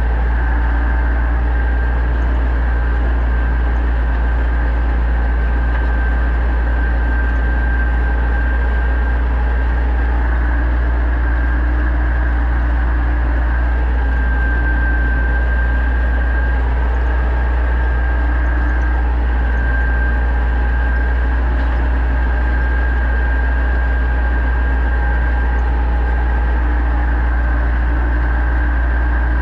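Pronar 1025A tractor's diesel engine running steadily under load while ploughing, with a steady high whine over a deep, even drone.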